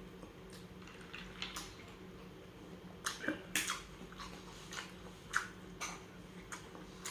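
Close-miked chewing and wet mouth smacks of a person eating spicy tuna sisig. Irregular short clicks come thickest from about three to six seconds in, over a steady low hum.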